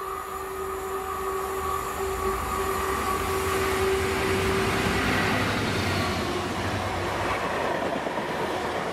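GBRf Class 66 diesel-electric locomotive, with its two-stroke V12 EMD engine, passing close by with a steady whine, louder about halfway through. The wheels of its rake of empty flat wagons then run by over the track.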